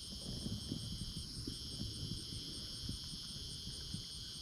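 Evening chorus of crickets and other insects singing steadily, one of them chirping about three times a second, over low irregular rustling and knocking.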